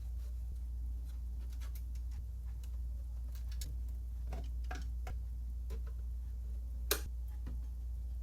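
Scattered light clicks and taps of ceiling fan parts and tools being handled, with one sharper click near the end, over a steady low hum.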